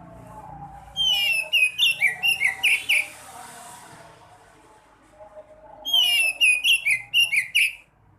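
Sekoci songbird singing two loud phrases, each about two seconds of fast, sharp whistled notes sliding up and down. Fainter background chatter and a low hum lie underneath.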